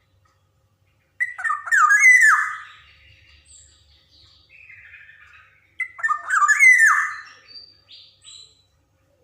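Black-naped oriole (kepodang emas) singing: two loud phrases of quick, descending whistled notes, the first about a second in and the second about six seconds in, with softer, scratchy calls between them.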